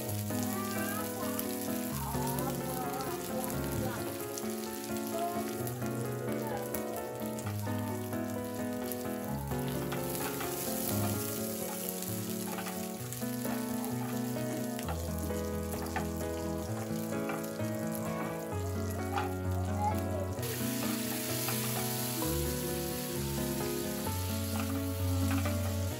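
Small dried fish (omena) sizzling as they fry in oil in a pan, stirred with a spatula, under background music with a shifting bass line. The sizzling gets louder about twenty seconds in.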